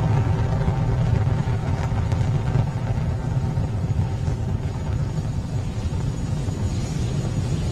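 Falcon 9 first stage's nine Merlin engines running at full thrust during ascent: a loud, steady deep rumble.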